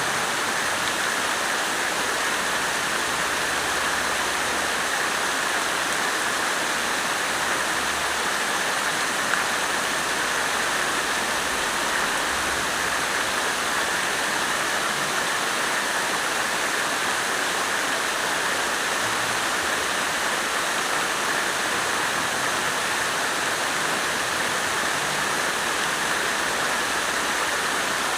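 Water fountain running, its falling water making a steady, unbroken splashing rush.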